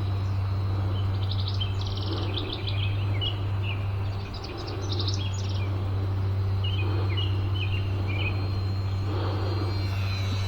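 Songbirds chirping in three short runs of quick notes over a steady low hum.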